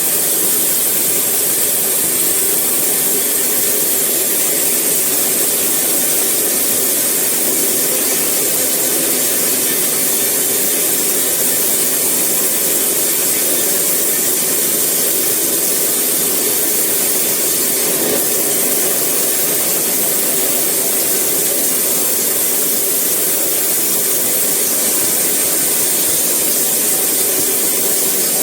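Sawmill saw running steadily through eucalyptus wood: a loud, unchanging hiss-like machine noise with no pauses.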